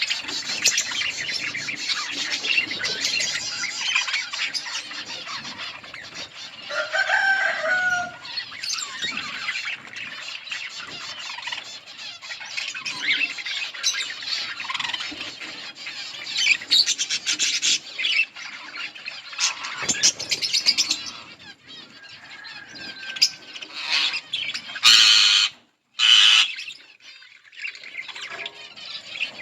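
A colony of budgerigars chattering and chirping continuously in many overlapping high voices, with two loud harsh bursts near the end.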